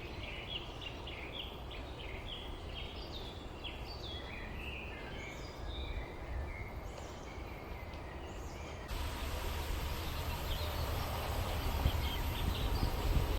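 Small birds chirping, with many short, quick calls over a steady low rumble. About two-thirds of the way through, the background switches abruptly to a louder, even hiss, and fainter chirps carry on under it.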